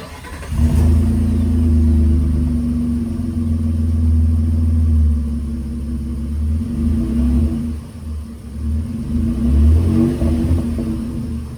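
2022 Nissan Frontier's 3.8-litre V6 firing up about half a second in and settling into a steady, deep idle through the exhaust, with a few light throttle blips later on.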